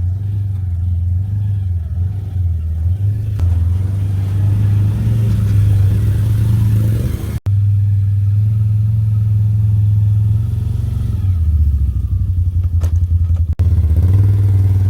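Can-Am Outlander 850 ATV's V-twin engine running steadily while pushing a plow through deep snow, a low drone that rises and falls in level. It cuts out for an instant about halfway through.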